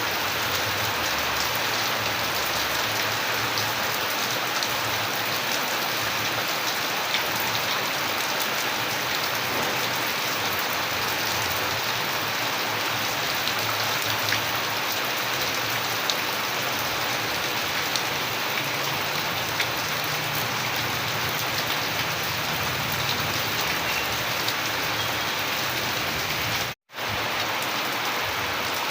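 Steady rain falling, an even hiss with many separate drop ticks. Near the end it cuts out completely for a fraction of a second, then comes straight back.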